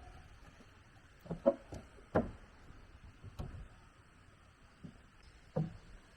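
Several irregular light knocks and clunks, about five of them spaced unevenly, the loudest about one and a half and two seconds in.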